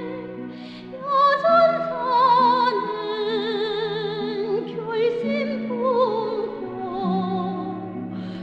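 Music: a solo voice singing in an operatic style with strong vibrato over a sustained instrumental accompaniment, in a North Korean song.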